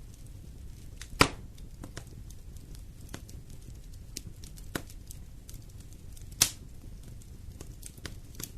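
Wood fire burning in a fireplace, crackling with scattered small snaps over a low steady rumble, and two loud pops, one about a second in and one past the middle.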